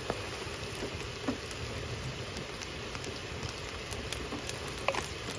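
Heavy rain falling steadily, with a few louder drip-like taps.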